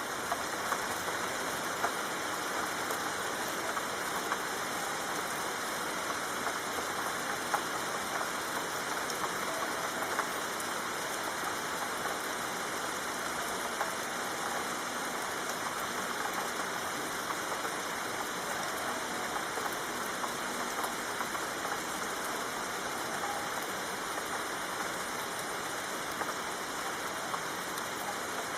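Steady soft rain falling, a continuous hiss dotted with many small drop ticks on a surface.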